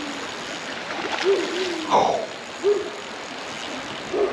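Low hooting bird calls, single notes about a second or so apart, over the steady rush of a creek. About two seconds in comes a short splash as the hooked trout thrashes at the surface on the tight line.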